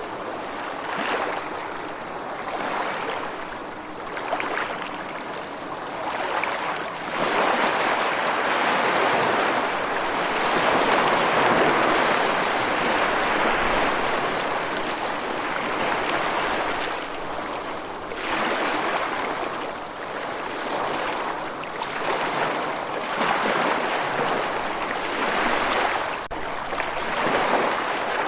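Rushing water as a continuous hiss that swells and eases every second or two, loudest through the middle stretch.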